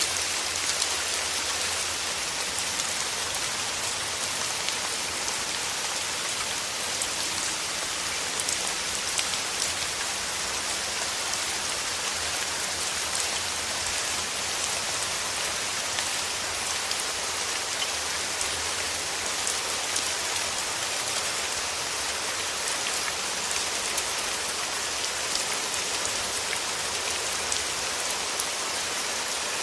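Steady rain falling, with individual drops heard as small scattered ticks over an even hiss.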